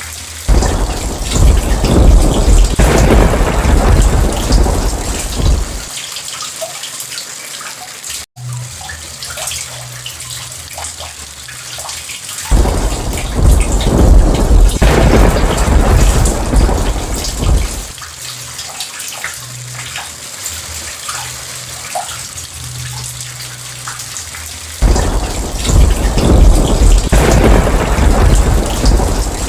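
Steady rain falling, with three long rolls of thunder of about five seconds each: one near the start, one about twelve seconds in and one about twenty-five seconds in. A split-second drop-out breaks the rain about eight seconds in.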